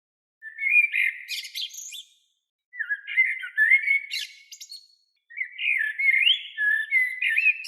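A songbird singing three warbling phrases, each about two seconds long, with short pauses between.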